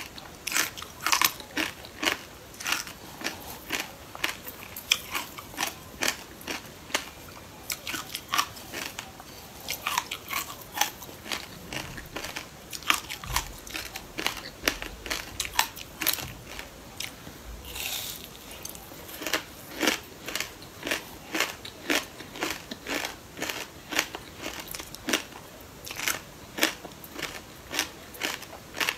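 Close-up crunching and chewing of crisp sesame-seed-crusted chunks, sharp crackly bites coming about twice a second.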